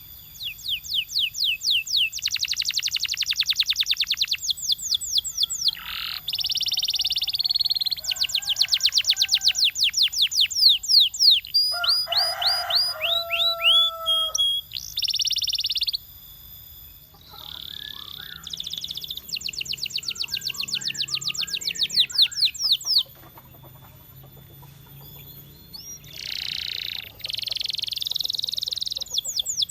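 Domestic canary singing a long song of rapid trills, each a quick run of repeated sweeping notes. These alternate with buzzy held rolls and one lower, deeper passage about halfway through, with a couple of short pauses between phrases.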